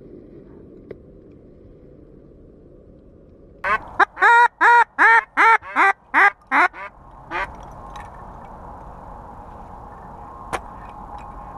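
A rapid series of about ten loud duck quacks over roughly three and a half seconds, starting a few seconds in. After them a steady hum sets in, with one sharp knock near the end.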